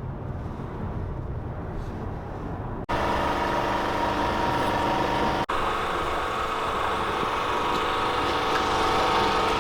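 Car engines running: a low rumble, then after an abrupt cut about three seconds in, a louder, steady engine note held at raised revs. A second brief cut comes partway through.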